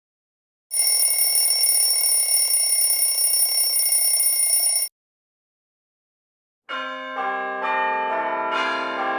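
A bell rings continuously and evenly for about four seconds and stops abruptly. After a short gap, several large bells begin ringing, each new stroke adding another note over the ones still sounding, as in church bell ringing.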